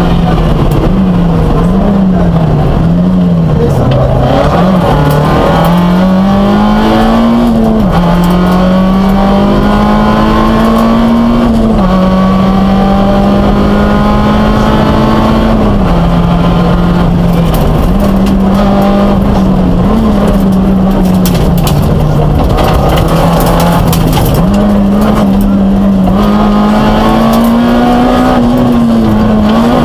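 Peugeot 106 Group N rally car's engine heard from inside the cabin, running at high revs; its pitch climbs and falls many times as it accelerates, shifts gear and slows for bends.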